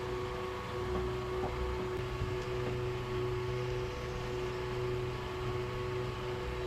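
Steady hum of a small motor on a fishing boat, holding a few unchanging tones over a low drone.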